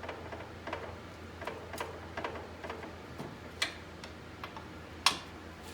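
Metal pry bar clicking and knocking against the CV axle and aluminium differential as the axle is pried and pulled, still held in the differential. A run of light clicks, with a sharper knock in the middle and the loudest near the end.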